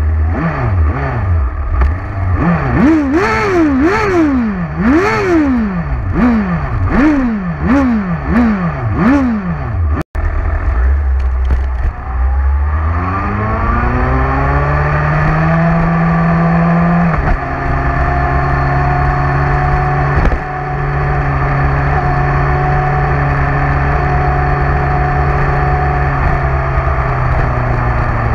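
Motorcycle engine revved in quick throttle blips, the pitch rising and falling about eight times. After a brief break it accelerates with climbing revs, shifts up twice and settles into a steady cruising note.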